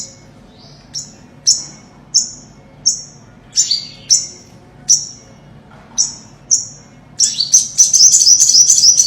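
Olive-backed sunbird calling: a series of short, high chirps, each dropping in pitch, one or two a second, then a fast twittering trill from about seven seconds in.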